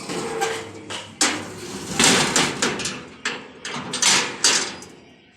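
Hard objects knocking and clattering irregularly, more than a dozen sharp knocks over a rattling noise, dying away near the end.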